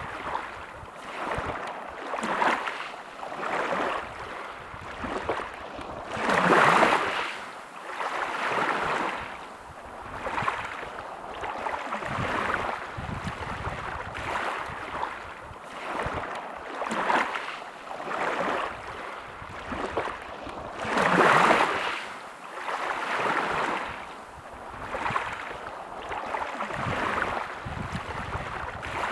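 Sea waves washing onto a shore, a rushing surge every couple of seconds, with two bigger, louder waves breaking about a quarter and three-quarters of the way through.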